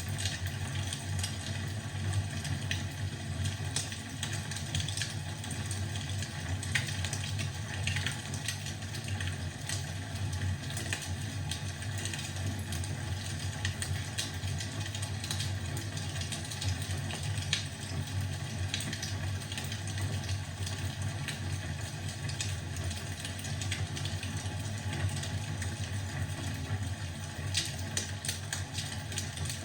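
Fireplace fire crackling, with many small sharp pops and snaps scattered over a steady low rumble.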